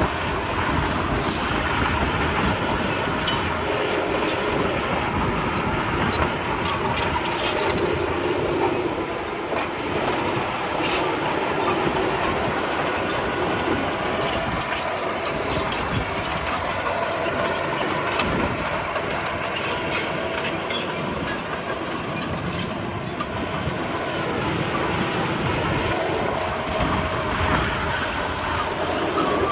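Komatsu D31P crawler bulldozer's diesel engine running steadily while its steel tracks clank and rattle.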